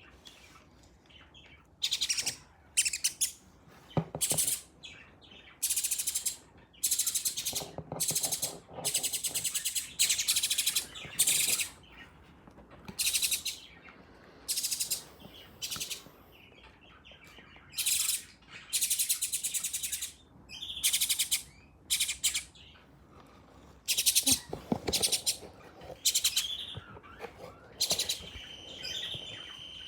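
Birds chirping in repeated short bursts of rapid, high-pitched calls, with brief pauses between bursts.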